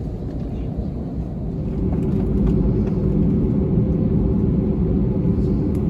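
Steady rumble of an Airbus A321-200's engines and airflow heard inside the passenger cabin, growing louder about two seconds in.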